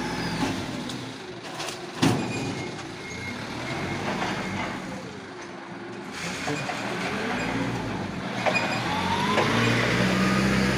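Wingbox truck's engine running, with a sharp clank about two seconds in and scattered knocks and short tones around it; the engine note grows stronger near the end.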